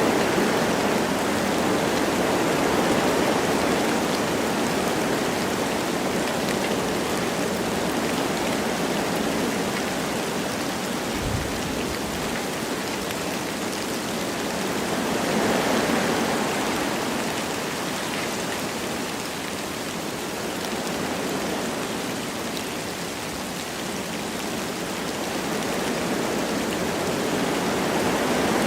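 Wind blowing through forest trees with light rain falling, a steady rushing hiss that swells and eases in slow gusts. A brief low thump comes about eleven seconds in.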